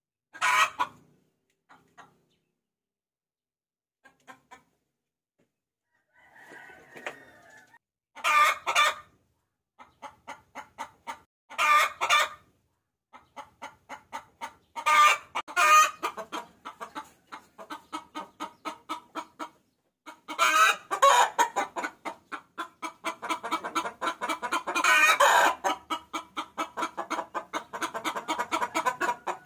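Hen cackling as a lure call to draw roosters: a few scattered calls at first, then fast runs of repeated clucks broken by louder drawn-out notes, growing denser and continuous over the last third.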